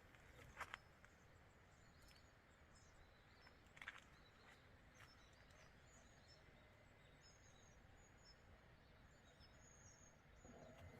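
Near silence: faint, high, short bird chirps, with a couple of soft clicks like a step or a twig, one about half a second in and one near four seconds.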